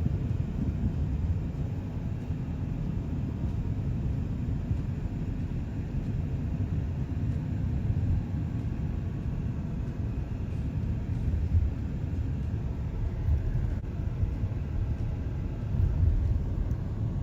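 Car on the move: a steady, low rumble of road and engine noise.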